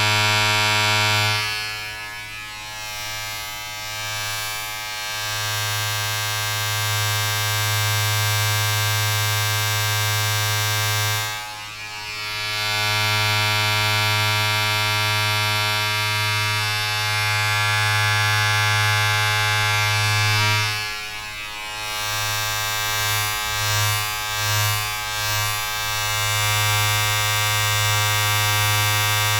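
Steady electric buzz from a small motorised appliance, with a low hum and many overtones. It drops away briefly three times, then flutters unevenly before settling back to a steady drone.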